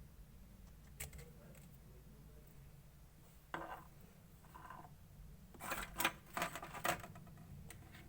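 Clear slime being mixed: sparse short clicks and crackly squishes, bunched together about six to seven seconds in.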